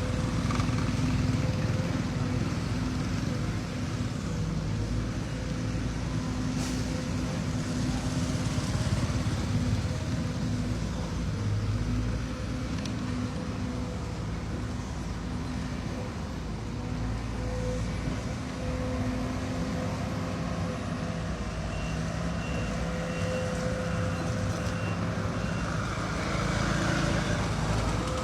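Heavy diesel construction machinery running steadily under load, a continuous engine rumble. Near the end comes a short run of high, evenly spaced electronic beeps from a machine's warning alarm.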